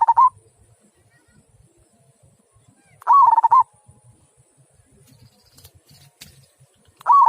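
Zebra dove (local perkutut) cooing, giving its deep 'kung' song in short warbling phrases about three and a half seconds apart: one ends just after the start, one comes about three seconds in and another begins near the end.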